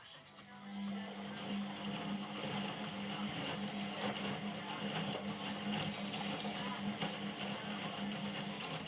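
Indesit IWUC 4105 washing machine running, a steady mechanical hum with a rushing noise over it that starts about half a second in and holds level.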